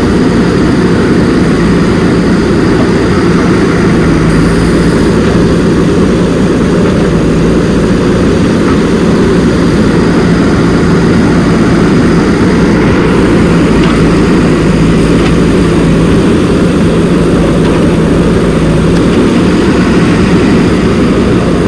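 A loud, steady mechanical hum with a constant low tone that does not change in pitch or level.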